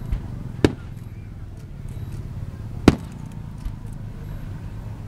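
Fireworks bursting: two sharp bangs about two seconds apart, with a few fainter pops around them.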